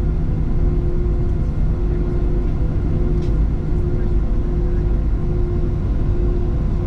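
Cabin noise inside a Boeing 737-700 airliner: a steady low rumble with a constant hum over it.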